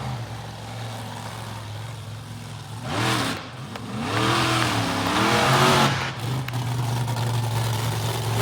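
Monster truck engine idling with a steady low hum, revved briefly about three seconds in, then revved up and down for about two seconds.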